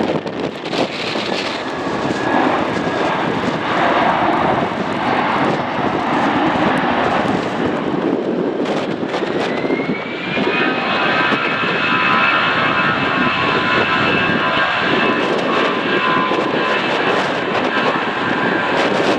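Airliner engines running, with a whine that rises about halfway through and then holds steady and high over a broad rushing noise, as the engines spool up.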